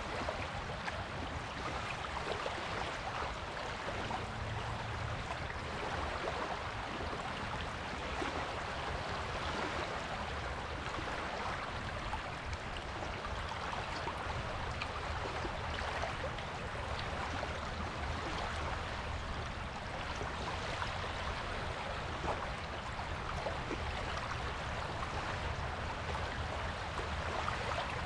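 Surf on a beach: a steady wash of water noise with fine crackle and a low rumble, without distinct swells.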